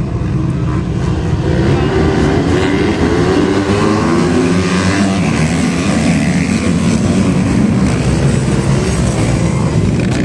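Racing motorcycles revving on a circuit, the engine pitch rising and falling as they accelerate and change gear.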